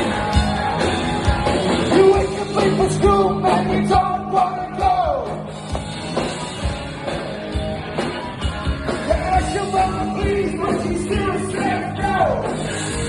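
Live rock band playing, with a male lead vocal singing held notes that slide down at the ends of phrases over electric guitar, bass and drums.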